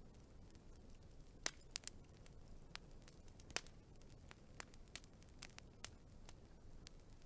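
Wood fire crackling: sparse, irregular sharp pops and snaps over a faint low rumble, with two stronger pops about a second and a half in and again near three and a half seconds.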